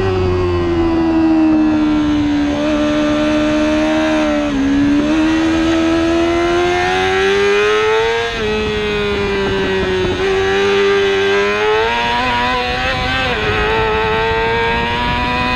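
Superbike racing motorcycle engine at high revs. Its note falls and rises with the throttle and jumps abruptly at several gear changes through the few seconds.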